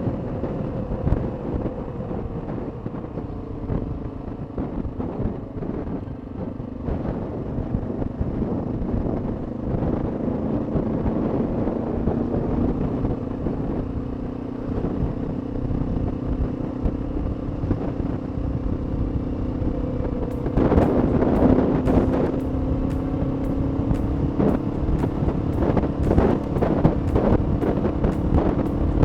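Honda XR650L's single-cylinder engine running as the motorcycle rides along. Its pitch drops slightly at first, then climbs slowly as it gathers speed. From about two-thirds of the way in, rapid crackling and buffeting at the microphone are added.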